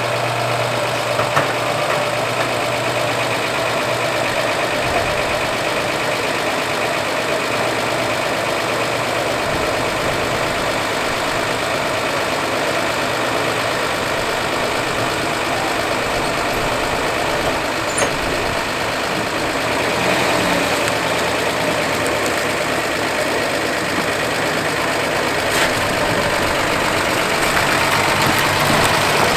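Stock Nissan L20A 2.0-litre inline-six in an old 130-series Cedric wagon, idling steadily, a little louder near the end.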